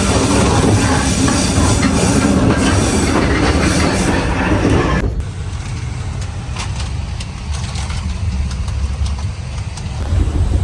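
Passenger train running on the track, heard from inside a carriage: a loud, steady rattle and rumble of the wheels and car body. About halfway through it drops abruptly to a quieter low rumble with faint clicks.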